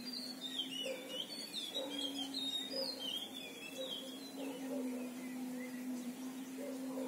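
A songbird singing a quick, warbling song of whistled rising and falling notes, busiest in the first four seconds and fading to scattered notes after. A steady low hum runs underneath.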